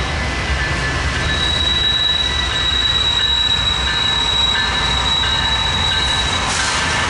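Freight train wheels squealing on the rail: a high, steady squeal that sets in about a second in and stops near the end. Under it runs the low rumble of the slow-moving BNSF diesel locomotives and train.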